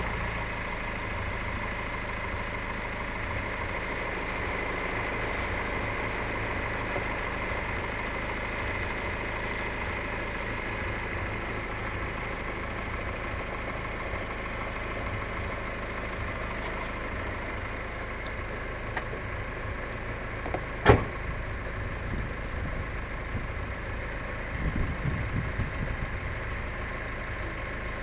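Mercedes-Benz A180 car engine idling steadily on fresh oil just after an oil change, having been started a moment before. A single sharp knock is heard about three-quarters of the way through.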